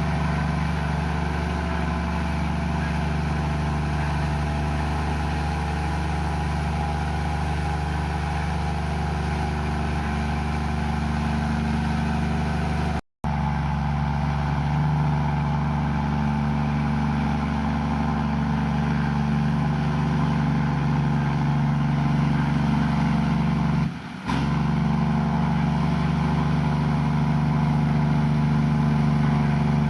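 Komatsu bulldozer's diesel engine running steadily at a constant pitch. The sound cuts out for an instant about 13 seconds in, and again briefly near 24 seconds.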